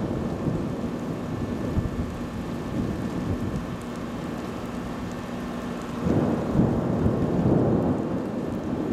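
Rain with a low, continuous storm rumble, swelling louder about six seconds in.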